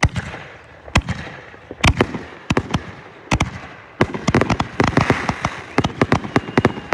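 Consumer fireworks going off: a sudden loud bang to begin, then sharp bangs about once a second with crackling between them, coming thicker and faster over the last three seconds.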